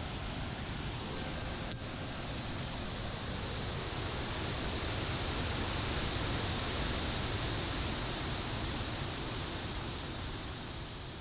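Steady rush of a waterfall's falling water, an even roar with no pitch, swelling a little toward the middle, with one faint click about two seconds in.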